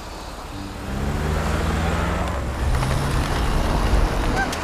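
A car engine revving as the car pulls away and accelerates, louder from about a second in, with its engine note shifting in pitch.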